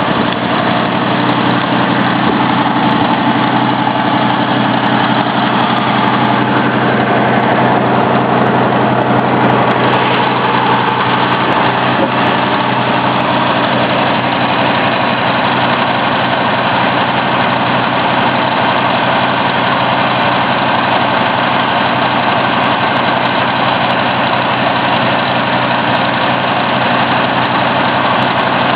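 A 1979 Ford F-150 Ranger's engine idling steadily.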